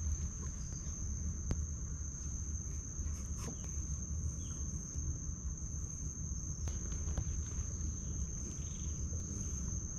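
Night insects chirring: one steady, unbroken high-pitched trill over a low rumble, with a few faint clicks.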